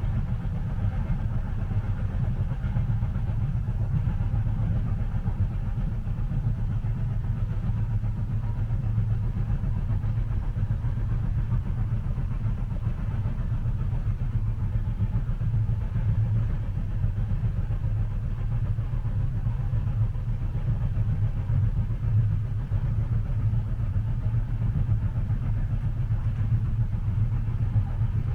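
Train running, heard from inside the passenger cabin: a steady low rumble that stays even throughout.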